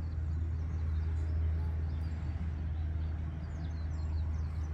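Steady low rumble, with faint birds chirping.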